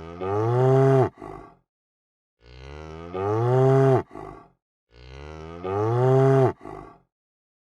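Cow mooing: the same call repeats about every two and a half seconds, three times. Each moo starts quieter, swells louder as its pitch rises, then breaks off with a short tail.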